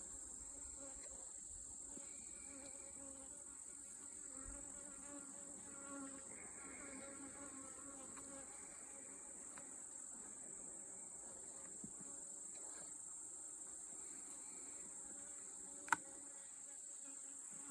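Honeybees buzzing around an opened hive, a faint steady hum that is growing louder, which the beekeeper takes for the colony getting aggravated by the inspection. A single sharp click sounds near the end.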